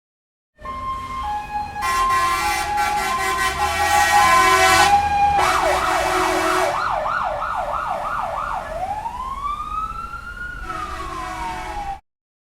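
Emergency vehicle siren running through its patterns: a two-tone hi-lo alternation, then a fast yelp sweeping up and down, then a slow wail that rises and falls before cutting off suddenly near the end.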